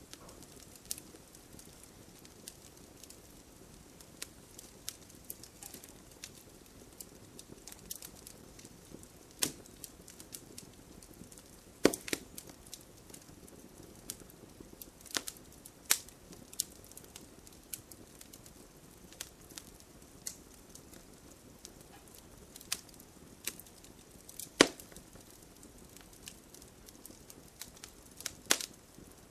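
Wood fire crackling: irregular small snaps over a soft steady hiss, with a handful of louder pops about twelve, sixteen, twenty-five and twenty-eight seconds in.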